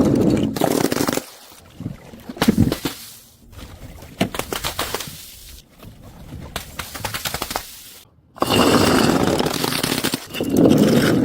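Crunchy objects being crushed: rapid cracking and crackling in several spells, with a dense run of crackle starting suddenly near the end.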